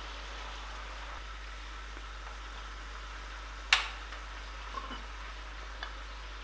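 Spinach sizzling steadily in a hot oiled pan during a stir-fry. A sharp clink of a utensil against the pan comes a little past halfway, followed by a few lighter taps.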